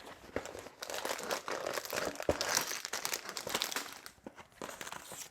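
Crinkling and rustling of a Lego set's packaging as it is unpacked by hand, with small clicks and knocks, thinning out near the end.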